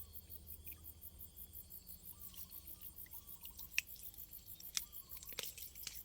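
Faint insects chirping in a steady, rapid high-pitched pulse, with a few sharp clicks and wet sounds near the end.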